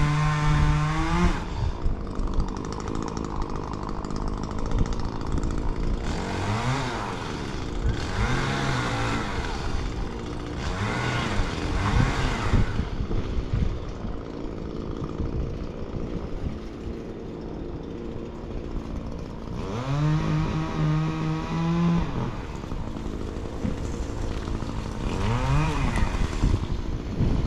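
Gas chainsaw revved up hard over and over, dropping back to a low idle between the revs, about five times.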